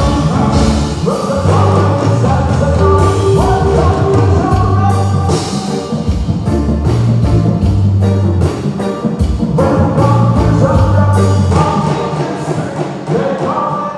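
Live rock music played loud through a PA: a singer over drum kit, bass and guitar, with steady beats throughout.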